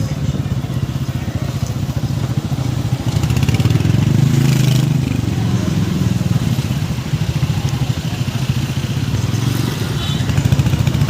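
Motorcycle engine running on a ride, a steady low drone that swells louder for a second or two about a third of the way in.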